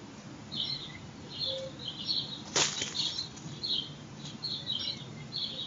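Small birds chirping repeatedly in short high notes, with one sudden loud flap of a bird's wings about two and a half seconds in.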